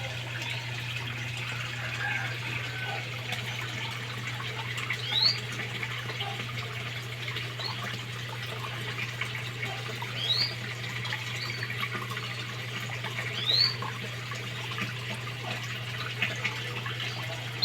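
Water running steadily in a koi pond, with a steady low hum. A canary chirps over it in several short rising whistles, the clearest about five, ten and thirteen and a half seconds in.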